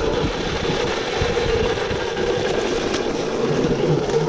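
Yozma IN10 electric dirt bike under way, its motor giving a steady whine over a rushing noise and low irregular thumps. A second, lower tone comes in near the end.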